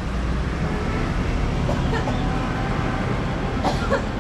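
Motorcycle engine running with wind and road rumble while riding, with a few short high-pitched calls briefly about halfway through and again near the end.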